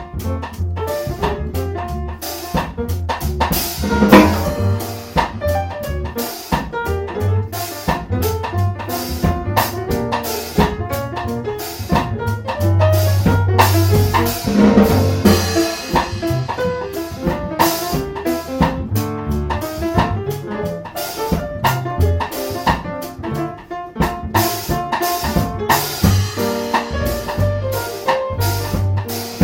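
Instrumental jazz played by a piano, bass and drum-kit trio, with a steady beat of drum hits under a busy run of piano notes and a walking low bass line.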